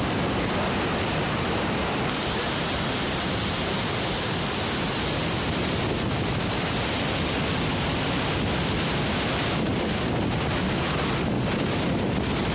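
Waterfall rushing, a steady dense roar of falling water.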